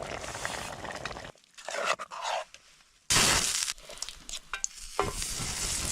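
Hot oil sizzling in a pan on an alcohol stove, with a sudden loud burst of sizzling about three seconds in that fades over the next two seconds.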